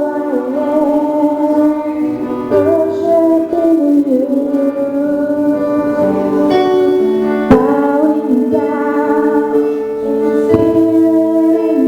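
Worship music: sustained keyboard chords under a singing voice holding long notes, with chord changes about every few seconds.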